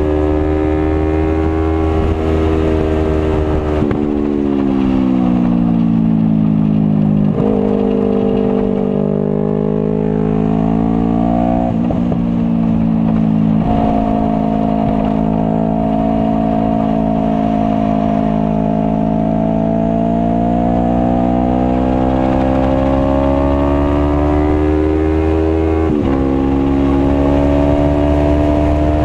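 Sport motorcycle engine running hard on a track. Its pitch falls as the bike slows, with short breaks for gear changes, then climbs slowly under power until a sharp drop from an upshift near the end.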